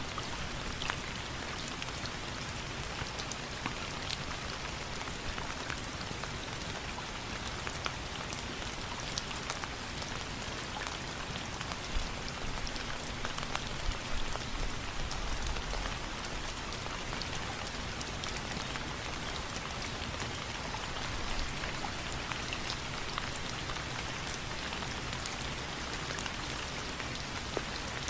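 Steady rain, an even hiss, with many scattered sharp ticks of drops striking close by.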